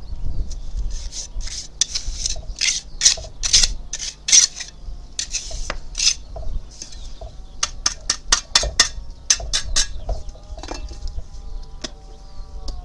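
A hand tool scraping and tapping, likely on stone or mortar: repeated scraping strokes about twice a second for roughly the first half, then a quick run of sharp clicks and taps.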